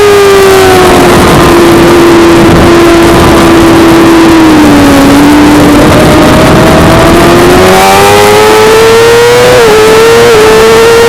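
Suzuki GSX-R600's inline-four engine under way on track. Its note falls slowly for about five seconds, then climbs again, with two short dips near the end, over a loud rushing noise.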